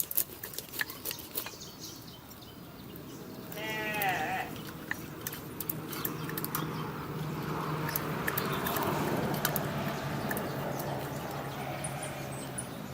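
A single bleating animal call of about half a second, a little under four seconds in, with a wavering pitch. It is preceded by a run of sharp clicks and followed by a steady rustling noise.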